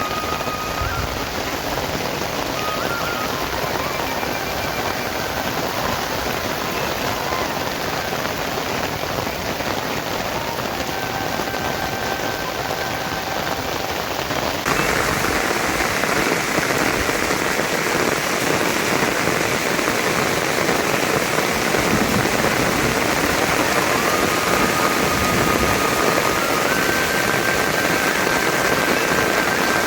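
Heavy rain falling steadily, a dense hiss that gets louder about halfway through. Faint held notes of a melody run over it.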